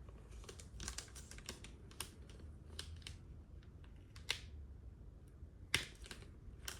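Soft rustling and scattered small clicks of a plastic comic book bag being handled as the comic is worked free from the bag's sticky flap, with sharper crackles a little past four seconds in and near six seconds.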